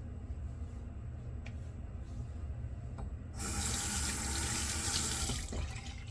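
Water tap running into a sink for about two seconds, turned on a little past halfway and shut off shortly before the end, over a steady low hum.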